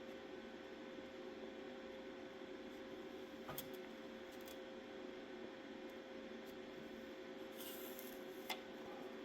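Faint steady electrical hum with a few light clicks and a brief soft hiss.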